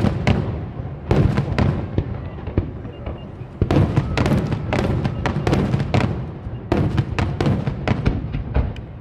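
Aerial fireworks display: shells bursting in quick volleys of sharp bangs and crackles, with a short lull about three seconds in before the next cluster.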